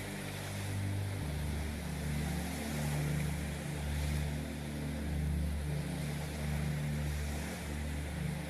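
Ambient meditation background music: sustained low drone notes that shift to a new chord about a second in, over a soft hiss that swells and fades like surf.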